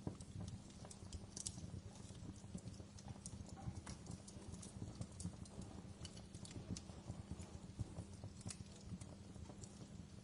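Wood fire in a fireplace crackling, with frequent irregular pops and snaps over a low steady rumble.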